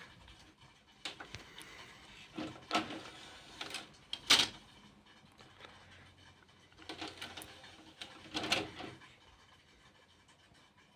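A Technics DV250 making irregular mechanical clicks and brief whirring noises, spaced a second or so apart, the loudest about four seconds in.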